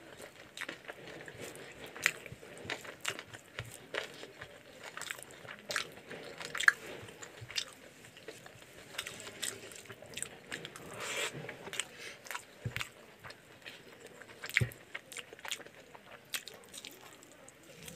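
Close-miked chewing and wet mouth sounds of someone eating chicken curry with rice by hand, with irregular sharp smacks and clicks.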